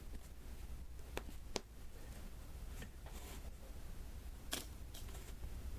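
Diamond painting: round resin drills being tapped one at a time onto the sticky adhesive canvas, giving a few light, sharp clicks spaced irregularly over a low steady hum.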